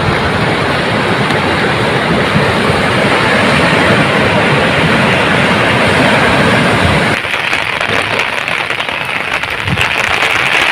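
Heavy cyclone rain and gusting wind, a loud, dense, steady rush. About seven seconds in it eases slightly and turns into a choppier crackling patter.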